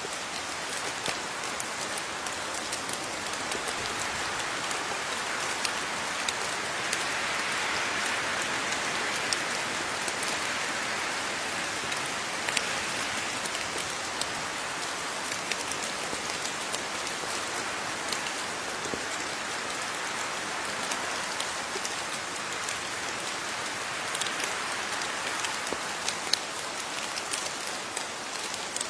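Steady rain falling, a dense hiss with many individual drops ticking sharply on a surface; it swells slightly for a few seconds in the first half.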